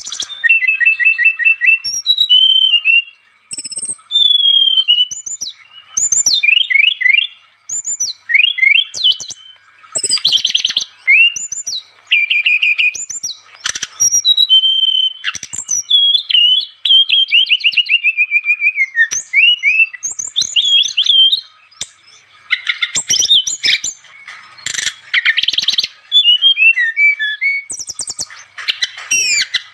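Brown-chested jungle flycatcher (sikatan rimba dada coklat) singing actively: a fast, varied run of chirps, sliding whistles and rapid trills, broken by short pauses.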